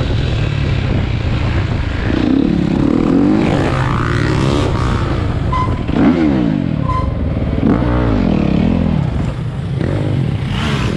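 Several dirt bike engines revving and riding past close by, their pitch rising and falling over a steady low engine rumble, loudest about six seconds in.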